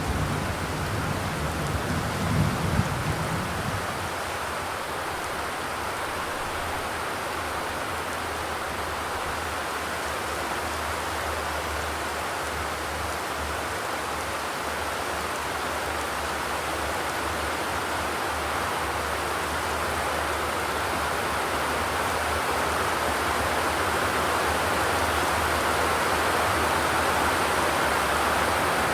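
Steady rain on a zinc roof, an even hiss that grows slowly louder, with a low rumble dying away in the first few seconds.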